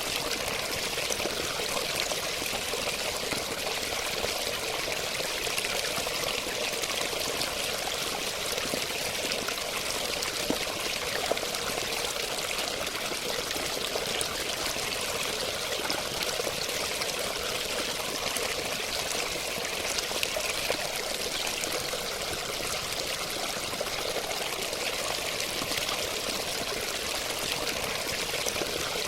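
Running water, a steady, even rush with a bright hiss and no breaks.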